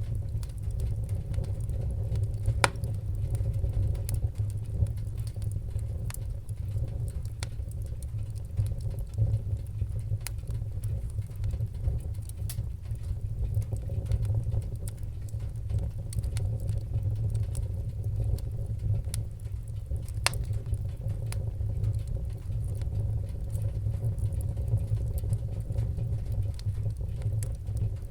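Wood-burning fire crackling, with scattered sharp pops over a steady low rumble.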